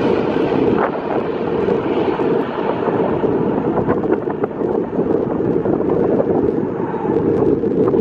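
Strong wind buffeting the microphone, a dense low rumbling noise, as the roar of a jet airliner that has just passed low overhead fades away.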